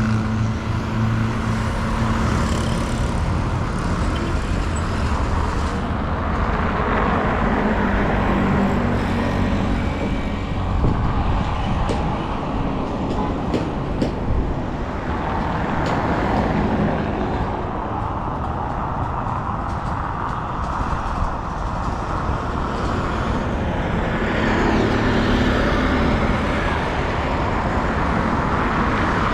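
Street traffic: motor vehicle engines running and passing in a continuous wash, with engines droning nearby at the start and again about 25 seconds in. A few sharp clicks come in the middle.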